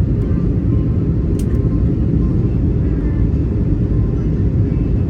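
Steady low rumble inside the cabin of an Airbus A320 in flight: its CFM56 engines and the airflow over the fuselage, heard from a window seat. A short click sounds about a second and a half in.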